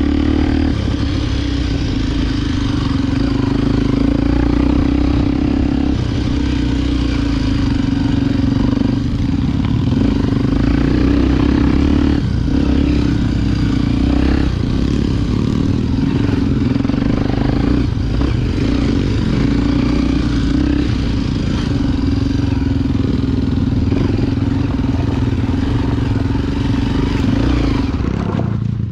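Honda XR Tornado 293 single-cylinder four-stroke motorcycle engine running steadily under load on a dirt trail, with several brief dips in engine note as the throttle is eased or gears are changed.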